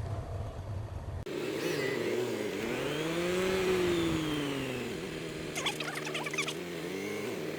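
Motorcycle engine pulling away, its pitch rising for a couple of seconds and then easing off as the revs drop, with a brief clatter of clicks about six seconds in and another short rise and fall near the end.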